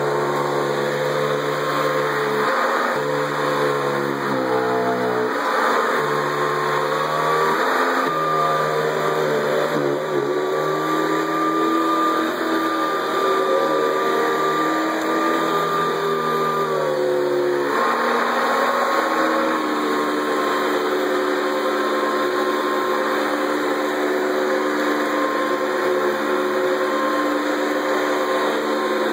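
Hoover Decade 80 (model U4385) upright vacuum cleaner running steadily, its motor pitch shifting up and down several times, most markedly about four seconds in and again about 18 seconds in, and holding steadier after that.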